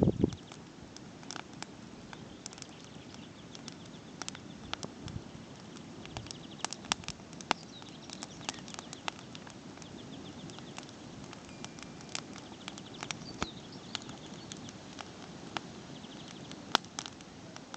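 Campfire crackling: irregular sharp pops and snaps over a steady low hiss.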